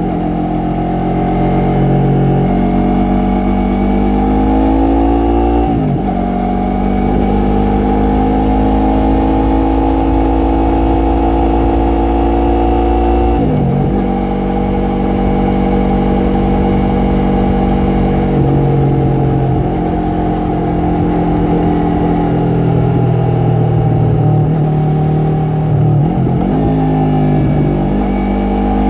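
Yamaha MT-03's 321 cc parallel-twin engine and exhaust under way, revs rising and falling with the throttle. The pitch dips sharply and recovers about six, thirteen and twenty-six seconds in, as the throttle is closed or a gear changes.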